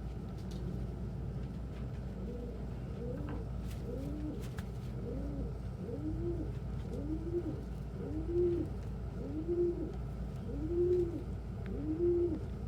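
Domestic pigeon cooing: a run of about a dozen coos, each rising then falling in pitch, repeating roughly once a second and growing louder toward the end.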